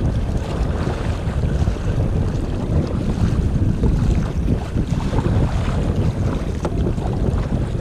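Strong wind buffeting the microphone, over choppy lake water splashing against a kayak.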